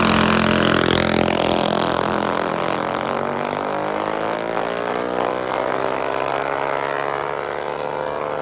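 Minibike engines running hard in a drag race, loudest at the start and slowly fading as the bikes pull away down the strip.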